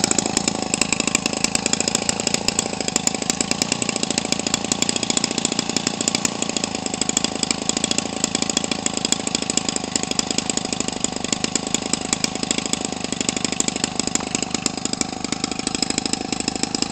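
Converted Homelite 25cc two-stroke engine running steadily through a gutted muffler with a welded-on pipe. It holds an even, rapid firing beat with no stumbles, its carburetor dialed in.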